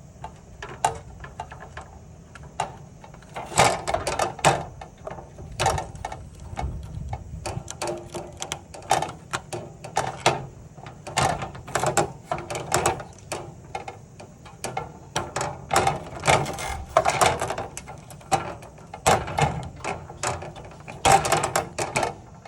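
A caught cicada buzzing and fluttering in short, irregular rasping bursts, the harsh clicking buzz of an insect in distress.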